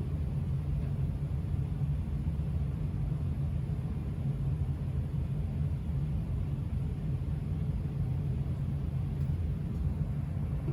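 1984 Casablanca Delta ceiling fan coasting down after being switched off, giving a steady low rumble.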